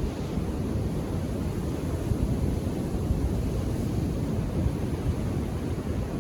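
Ocean waves breaking on a beach: a steady low rumble of surf, mixed with wind buffeting the microphone.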